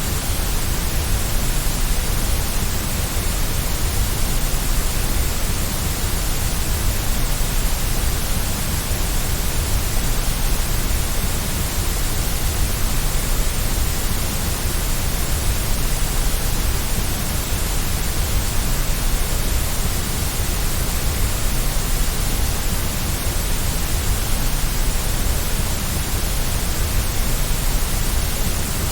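Steady white noise for a baby's sleep, an even hiss with no changes.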